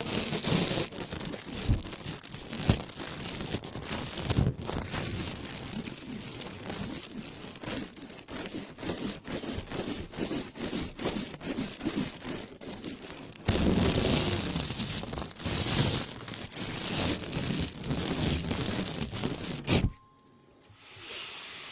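Close-miked ASMR crinkling and rustling of a crackly material, dense with small clicks. It grows louder about 13 seconds in and cuts off suddenly near the end.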